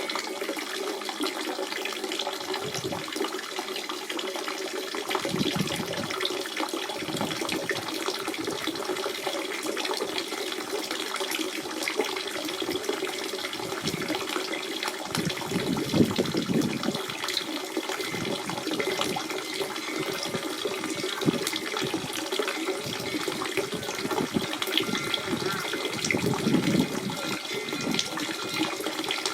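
Natural spring water running and trickling, a continuous wash with small splashes and gurgles, swelling now and then with a deeper gush.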